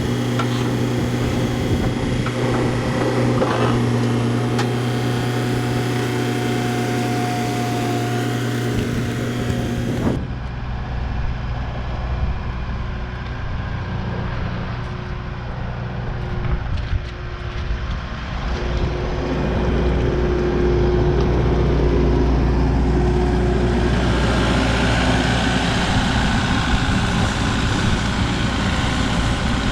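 Vehicle engine running steadily. About ten seconds in the sound cuts abruptly to a deeper engine rumble.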